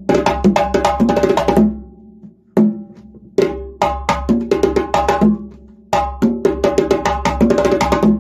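Drums struck in fast, irregular flurries with no steady beat: three dense bursts of strokes, separated by short pauses with a single stroke in the first gap.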